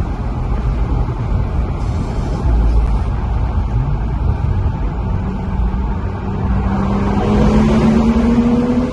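Car engine and road rumble while driving, the engine note climbing steadily over the last few seconds as the car accelerates.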